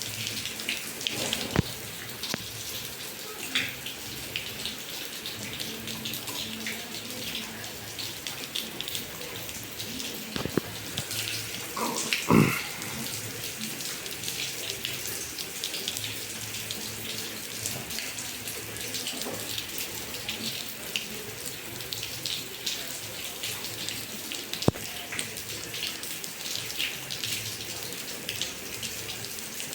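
Rain falling steadily with water splashing and running, dotted with many small drop splashes. One louder sharp knock comes about twelve seconds in.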